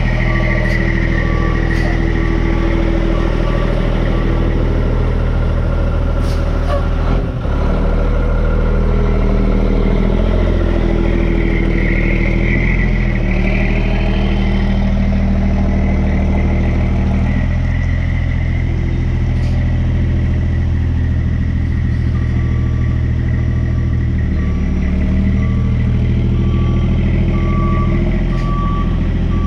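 Diesel engine of a Kubota B2650 compact tractor working while it loads dirt, its pitch rising and falling as the load changes. A backup alarm beeps at the start and again near the end, and there is a single knock about seven seconds in.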